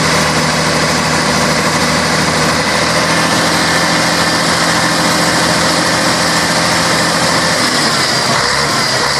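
Scania K113 bus's six-cylinder diesel engine running loud and steady, its pitch shifting slightly a couple of times.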